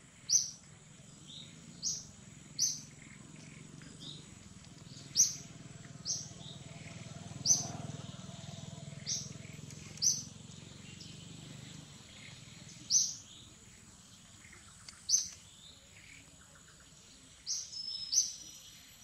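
A bird giving short, sharp, high chirps, about a dozen of them spaced a second or two apart, over a steady high-pitched tone and a low hum that fades about two-thirds of the way through.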